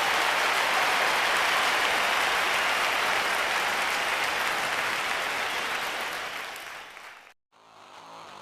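Applause, steady, fading away about seven seconds in and then cut off, with a quieter hum starting after a moment of silence near the end.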